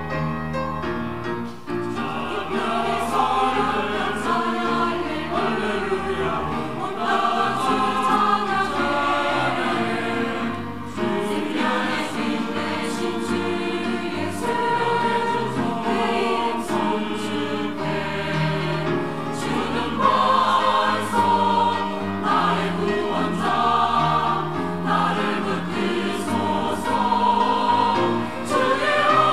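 Church choir singing an anthem together, sustained and full throughout.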